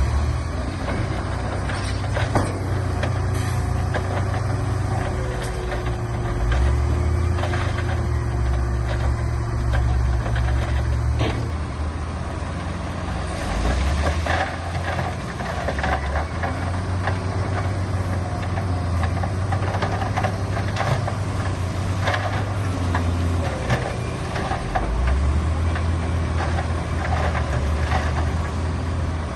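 Heavy diesel construction machinery running, the engine note shifting up and down in steps as the machines work, with scattered clanks and knocks.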